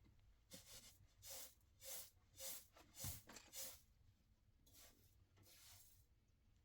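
A series of about seven soft scraping strokes, roughly two a second, followed by two fainter ones.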